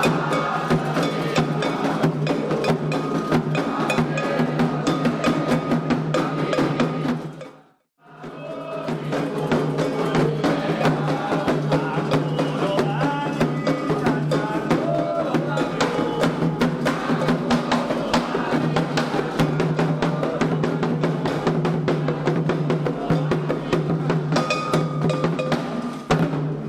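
Ceremonial Candomblé drumming: atabaque hand drums playing a fast, dense rhythm with a clacking percussion part, and voices singing along. It cuts out briefly about 8 seconds in, resumes, and stops just before the end.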